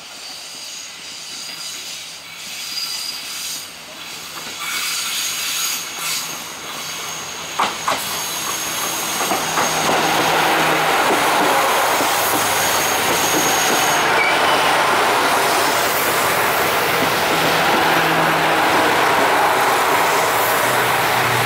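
A JR Kyushu KiHa 200 series diesel railcar train arrives slowly and passes close by. The rumble of wheels on rail grows louder and then holds steady from about halfway. There are a couple of sharp clacks about seven and a half seconds in, and a thin, high wheel squeal runs for several seconds after them.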